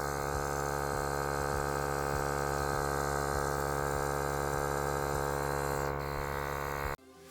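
Small 12-volt tyre inflator compressor from a Mazda puncture repair kit running with a steady hum as it pumps a punctured tyre up towards 2.5 bar. It stops abruptly near the end.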